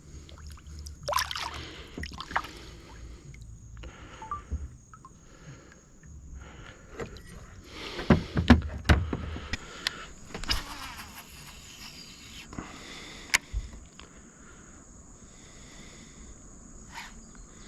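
Scattered knocks, clicks and rattles of fishing gear and paddle against a kayak, with a louder burst of sound about eight seconds in, over a steady high insect drone.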